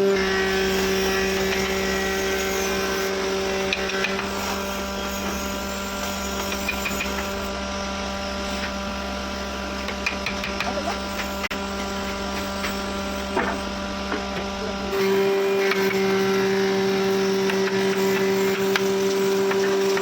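A power tool running at a steady hum, with a deeper rumble under it that drops away about fifteen seconds in, and scattered light knocks.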